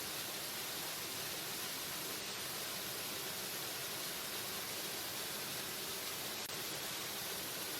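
Waterfall: a steady rush of falling water, an even hiss strongest in the high frequencies, with no breaks.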